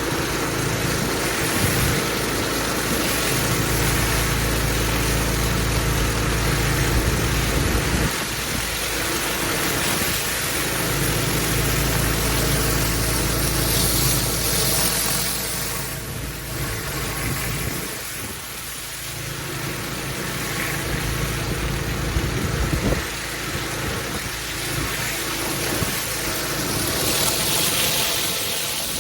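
Engine-driven pressure washer running steadily, with the continuous hiss of high-pressure water spraying onto block paving.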